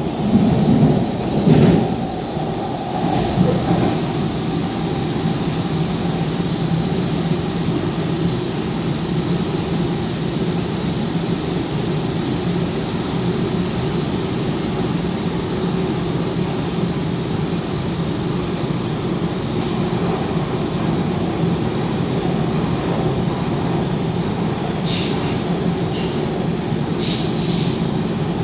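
MTR K-Train metro train running, heard from inside the car: a steady rumble of wheels on rail with a steady high-pitched whine over it. A few knocks come in the first couple of seconds, and several short high wheel squeals come near the end.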